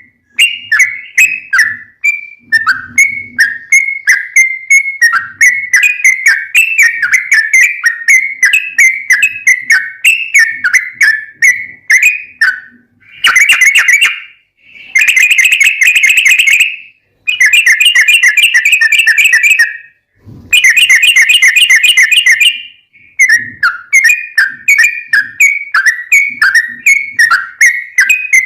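Yellow-vented bulbul (trucukan) singing: a run of short, clear chirping phrases, broken in the middle by several long, fast rolling trills (the 'ropel' song) of a few seconds each.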